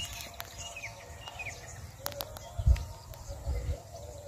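Small birds chirping in short, quick calls during the first second and a half, with a few low thuds on the microphone later.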